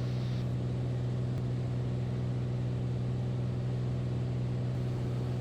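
Beechcraft A36 Bonanza's six-cylinder piston engine and propeller droning steadily, heard from inside the cabin during the approach.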